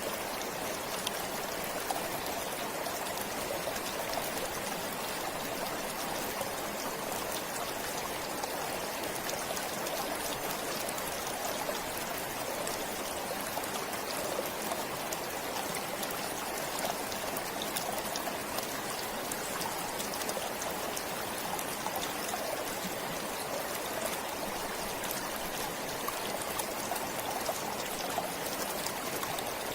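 Forest stream flowing steadily, water running and trickling over stones with fine splashing, unchanging throughout.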